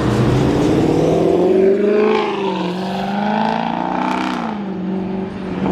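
Car engine revving hard as it accelerates, its pitch rising and falling twice.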